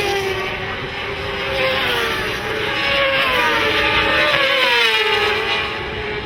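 Racing motorcycle engines passing at high revs, several at once, each engine's pitch falling as it goes by.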